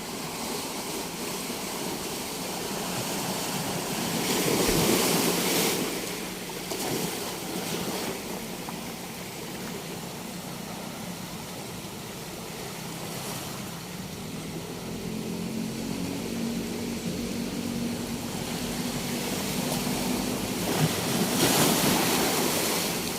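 Ocean waves breaking and washing up a beach, a steady rush of surf with two louder breakers: one about five seconds in and one near the end.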